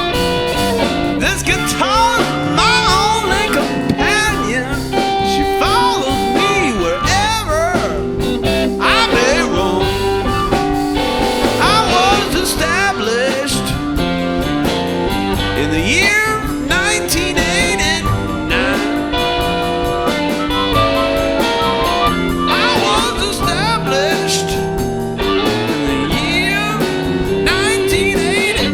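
A band playing live, an electric guitar carrying wavering, bent lead lines over bass and drums.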